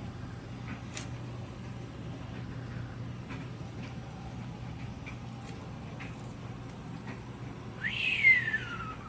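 A steady low hum with faint scattered clicks. Near the end comes a single call that rises quickly in pitch and then slides down, the loudest sound here.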